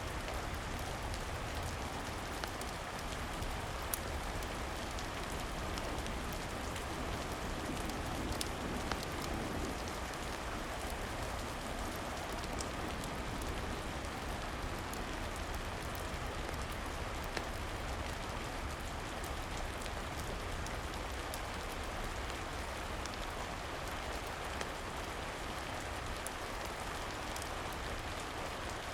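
Steady rain falling, with scattered small sharp crackles of a wood fire here and there.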